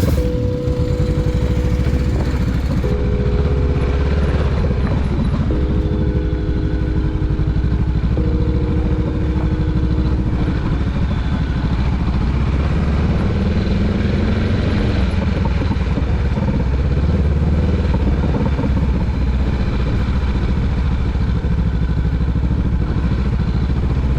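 Motorcycle engine running steadily while riding, with a continuous low rumble. A few held tones that change pitch in steps sit over it for the first ten seconds.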